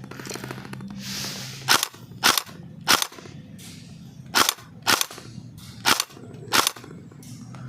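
Airsoft rifle firing seven single shots at an uneven pace, each a short sharp crack.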